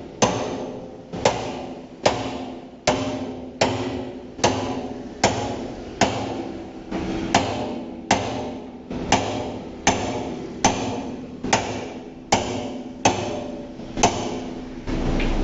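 Steady hammer blows on a thick steel oil drum, about one strike every three-quarters of a second, the drum ringing after each blow as it is cut by hand.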